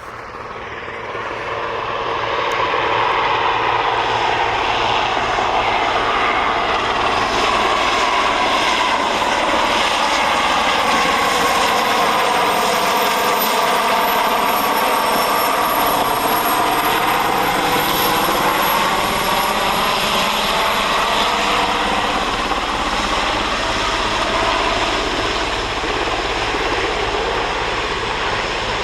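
A second Marine Corps presidential-fleet helicopter flying in to land, its rotor and turbine engine sound swelling about two seconds in and staying loud. The engine whine dips in pitch and then rises again.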